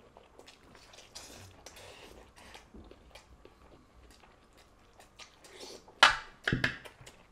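Chewing and mouth smacks of two people eating rice and egg curry by hand, with soft clicks and squelches throughout and a couple of louder sudden noises about six seconds in.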